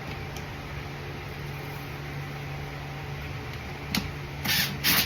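Steady low machine hum in the background, with a sharp click about four seconds in and two short scratchy handling noises just after, from parts being worked on by hand.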